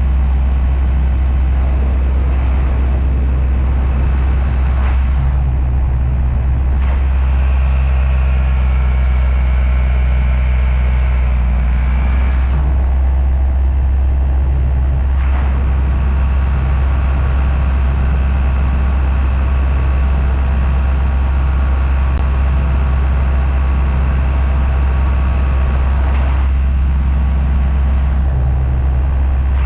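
Paramotor engine running steadily under power: a loud, constant drone with a few slight shifts in its note.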